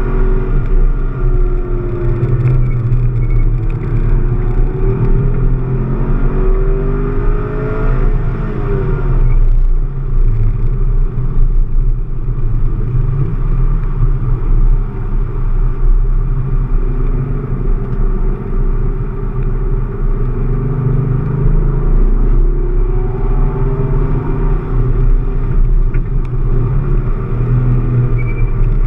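Chevrolet Camaro SS V8 engine under hard track driving, heard from inside the cabin with a deep rumble: its pitch climbs under acceleration, drops suddenly about a third of the way in as the driver lifts for a corner, then climbs again near the end.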